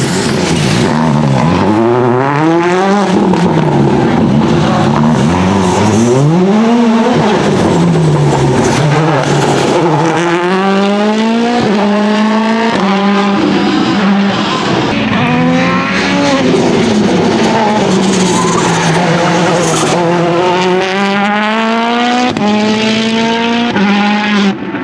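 Citroën C3 WRC Plus rally car's turbocharged four-cylinder engine running hard. Its note climbs and drops again and again, with sudden falls in pitch at the gear changes.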